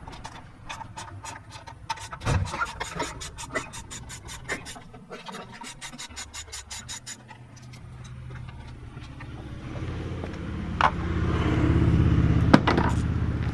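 Rapid, evenly spaced clicking of a ratcheting driver with a Phillips bit, backing screws out of a small engine's air filter assembly. In the last few seconds a low rumble swells up and becomes the loudest sound.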